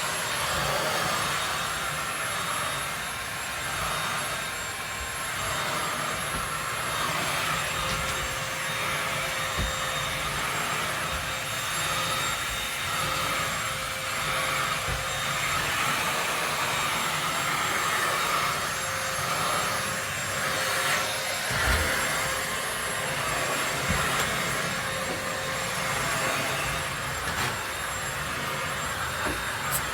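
Vacuum cleaner running steadily with a whining drone, with a couple of brief low knocks about ten and twenty-two seconds in.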